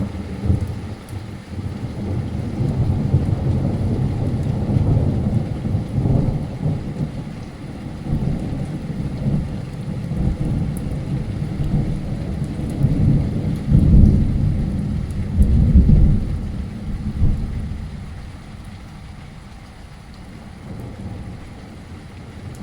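Thunder rumbling in long rolling waves over steady heavy rain, swelling loudest about two-thirds of the way through and then dying away.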